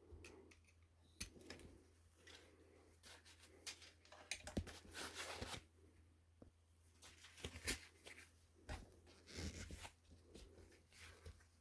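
Small handling noises of hands working on parts and tools: scattered clicks and short rustles, over a faint steady low hum.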